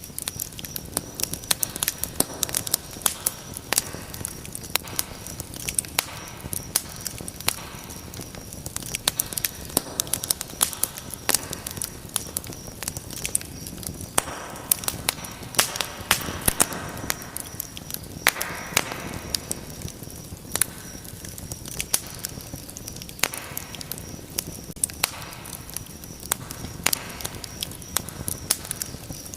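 Wood fire crackling in a fireplace: many sharp, irregular pops and snaps over a steady rush of burning, with a stretch of louder hissing a little past the middle.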